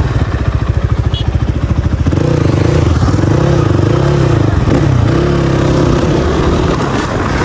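Dirt bike engine running, first at low revs with distinct rapid firing pulses. About two seconds in it picks up, and its pitch rises and falls as the throttle is opened and eased while riding.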